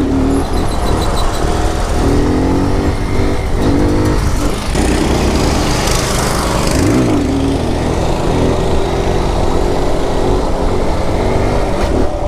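Honda Grom mini bike's small single-cylinder engine running at road speed, its pitch dipping and climbing back up twice as the rider shifts and rolls the throttle. Wind rushes over the microphone and swells near the middle.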